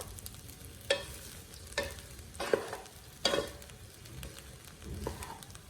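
Wooden spoon stirring fried rice in a hot pan, knocking against the pan four times in the first few seconds over a faint sizzle.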